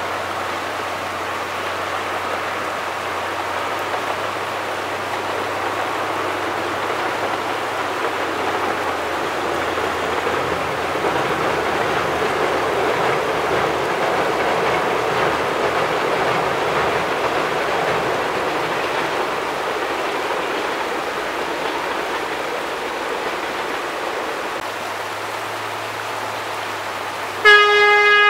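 Narrow-gauge diesel passenger train running by, its rushing rail noise swelling to a peak midway and easing off. Near the end the locomotive's horn sounds a short, loud blast.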